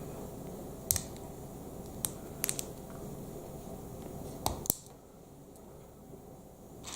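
Plastic Lego Technic pieces clicking and tapping as they are handled during building: about six short, sharp clicks, two of them close together about four and a half seconds in.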